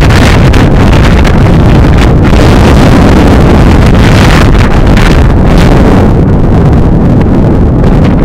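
Strong gusty wind buffeting the microphone: a loud, deep, rumbling wind noise that eases slightly near the end.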